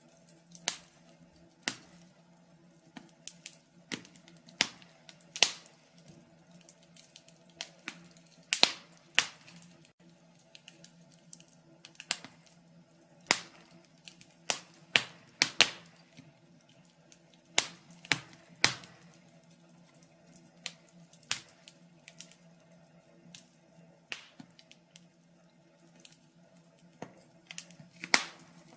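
Wood fire crackling: burning logs give irregular sharp pops and snaps, a few loud ones among many quieter ticks, over a faint steady low hum.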